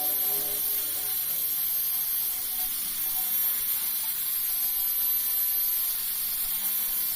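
Steady hiss with a faint, high-pitched steady tone above it, with no clear events or rhythm.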